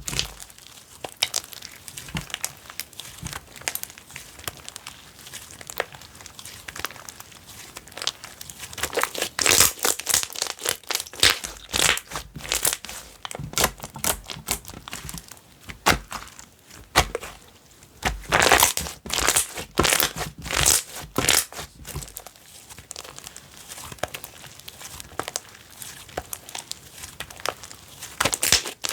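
Hands squishing, stretching and poking slime, giving crisp crackles and small pops in bunches, with quieter spells between.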